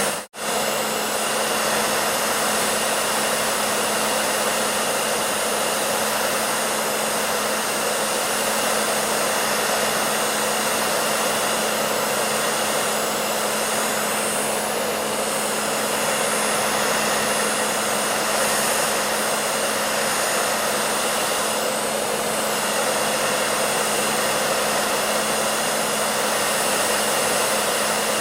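Hair dryer running steadily: an even rushing of air over a constant motor hum. It drops out for an instant right at the start, then carries on unchanged.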